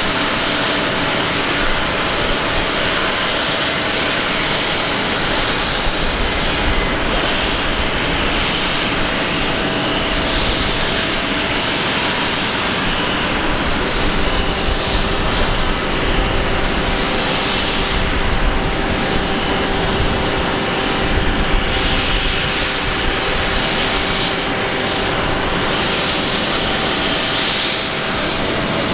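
Airbus A330 airliner's jet engines on landing: a loud, steady rush of noise with a few steady whining tones running through it.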